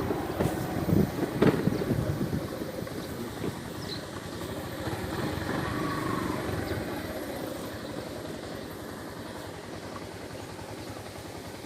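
Vehicle engine running steadily, with a few knocks in the first two seconds.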